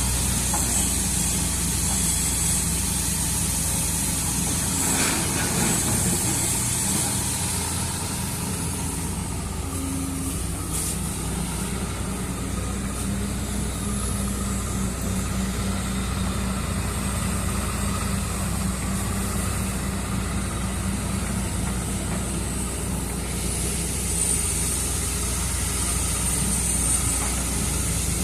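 Hydraulic excavator's diesel engine running steadily, with a steady hiss over it.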